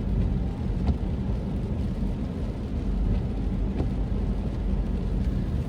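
Steady low road and engine rumble heard inside a car driving in the rain, with a few faint ticks.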